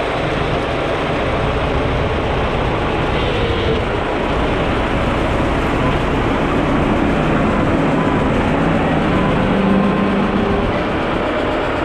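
Heavy railway track-works machinery running steadily: a loud, even mechanical noise with a faint engine hum underneath.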